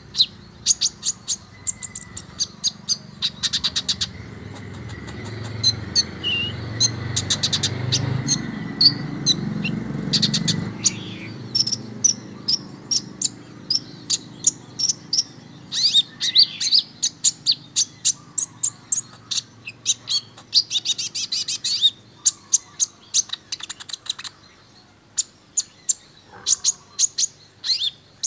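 Kolibri ninja sunbird singing: rapid trains of sharp, high ticking notes fired off in bursts, mixed with short whistled chirps and trills. A low rumble rises under the song for several seconds about a third of the way in.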